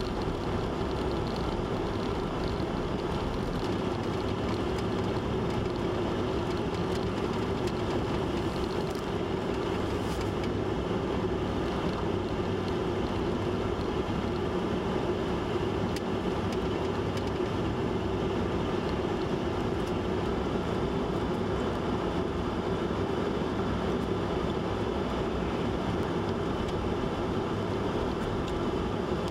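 Steady hum of a running motor vehicle, unchanging throughout, with a constant low drone and a noisy wash over it.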